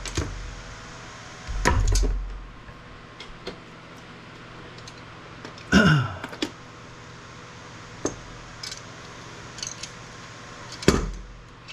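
Scattered clicks and clatter of circuit boards and components being handled and pried apart by hand, with heavier knocks about two seconds in and near the end. About six seconds in there is a short squeal that falls in pitch.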